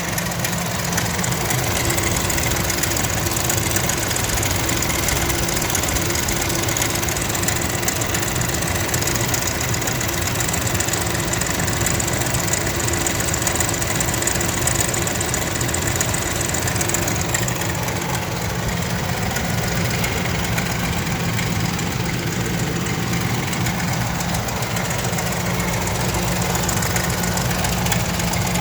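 2000 Ford Expedition's 4.6-litre V8 idling steadily with an abnormal mechanical noise. The owner thinks it comes from the belts and suspects the belt tensioner pulley, with a flat rocker as another thought, and rules out the lifters.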